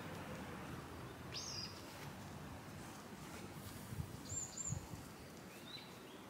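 Faint garden ambience with a few short, high wild bird calls: one about a second in, two quick chirps a little after four seconds, and another near the end. A few soft low thumps come around the four-second mark.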